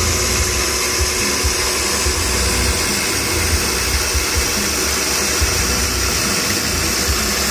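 Milling machine running, its end mill plunge-cutting into knife pocket-clip stock: a steady machine noise with a strong hiss.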